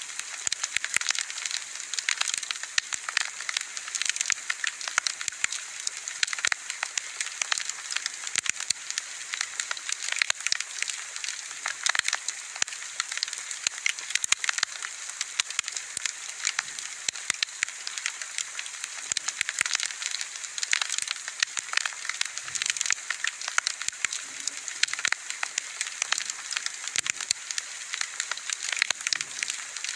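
Wood bonfire crackling steadily, with many small sharp pops and snaps over a soft hiss.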